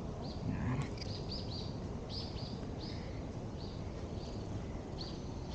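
A small bird chirping repeatedly, about a dozen short high chirps, over steady low background noise.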